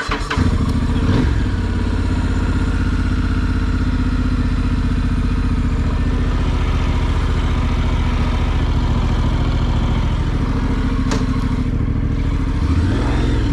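Motorcycle engine starting and catching, with a quick rise in revs about a second in, then running steadily at idle.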